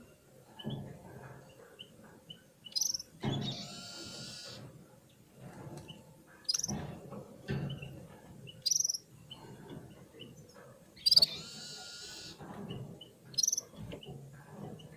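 Red-fronted serins calling: short, high chirps every few seconds and two longer twittering phrases, over low rustling and knocking.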